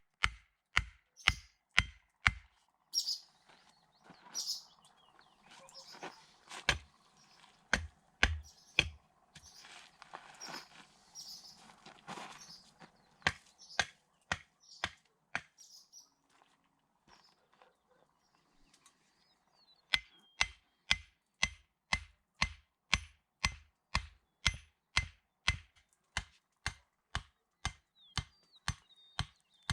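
Runs of sharp, evenly spaced blows, about two to three a second, as of a hammer striking: a short run at the start, scattered strikes in the middle and a long steady run over the last ten seconds. Birds chirp faintly in the background.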